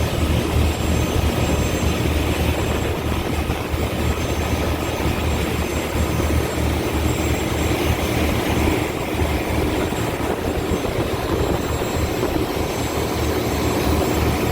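Twin Mermaid turbo diesel engines of an Aquastar 33 motor cruiser running steadily: a continuous low drone with a rush of noise over it.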